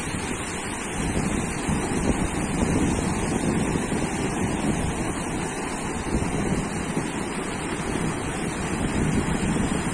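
Sea surf breaking and washing on a sandy beach, a steady rush that swells and eases slowly, with wind buffeting the microphone.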